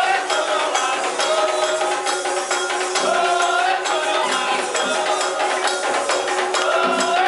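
Voices singing a wavering chant over steady hand percussion and shaken rattles, the music of a Candomblé ceremony for Xangô.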